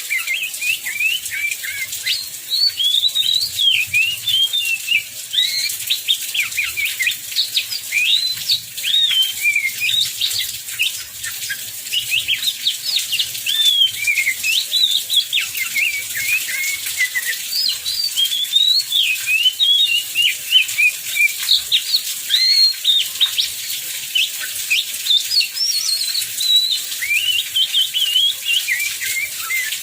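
Oriental magpie-robin (kacer) singing continuously, a long run of quick, varied whistles, glides and chattering phrases with hardly a pause. A steady hiss of heavy rain runs behind it.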